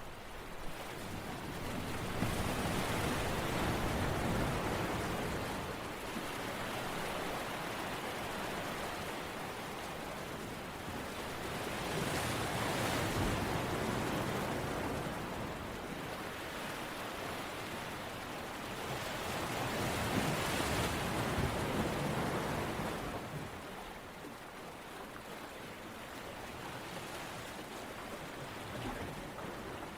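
Waves washing ashore: a rushing water noise that swells three times and ebbs away between the swells.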